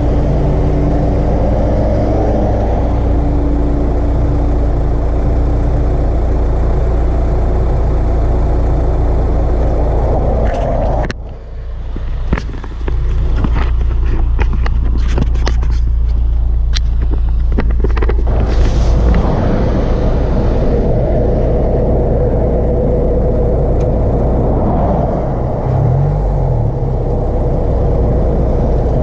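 Car engine fitted with an Acuity cold air intake running with a steady low drone and engine tones. About eleven seconds in the drone briefly drops away, and a run of sharp clicks follows for several seconds before the steady drone returns.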